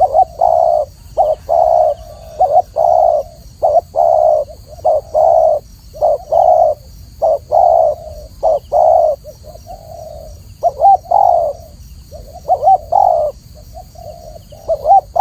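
Spotted dove cooing over and over, loud, low, clear coo notes in quick runs of two or three with short pauses between.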